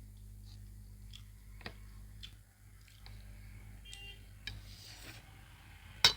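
Light, scattered clicks and taps of cutlery against a plate while eating noodles, over a low steady hum. A sharper, louder clink comes right at the end.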